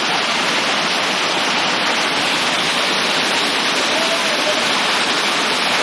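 Heavy rain pouring steadily into standing floodwater, a loud, even hiss of drops that does not let up.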